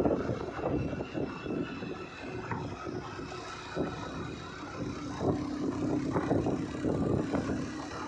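A vehicle on the move: steady engine and road noise, with a low steady hum coming in about five seconds in.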